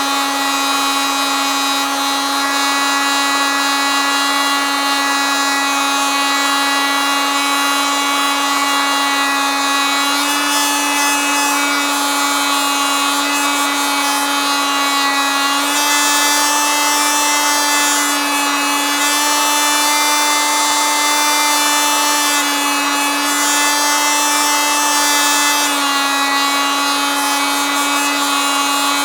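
Oscillating multitool running continuously with a steady high-pitched buzz. Its pitch rises slightly partway through and settles back near the end.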